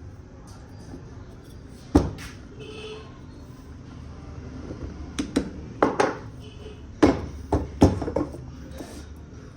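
Sharp knocks and clacks of parts being handled during washing machine assembly: one about two seconds in, then a cluster of several between about five and eight seconds, over a low steady hum.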